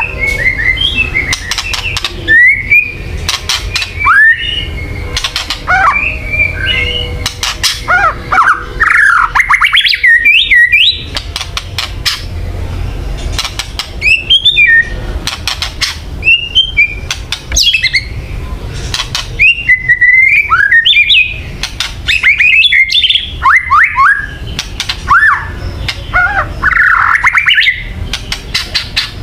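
White-rumped shama giving harsh, agitated rattling calls mixed with short whistled and chirping notes, in quick repeated phrases with many sharp clicks, over a steady low hum. This is the aggressive 'kretekan' call used to provoke other shamas into fighting mood.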